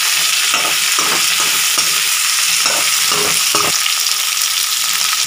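Shallots, green beans and carrots frying in sesame oil in a pan: a steady sizzle of hot oil, with several short scraping strokes of stirring, mostly in the middle of the clip.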